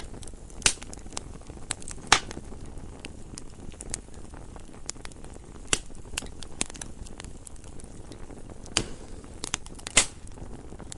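Crackling campfire: wood burning with a steady low rush and irregular sharp pops and snaps. The loudest snaps come about a second in, about two seconds in, and near the end.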